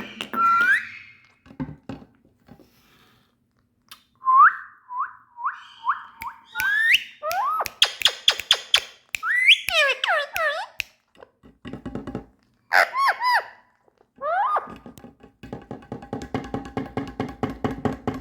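Indian ringneck parrot whistling: a run of short rising whistled notes, then swooping calls that slide up and down in pitch. Near the end it breaks into a fast, even run of rapid chattering pulses.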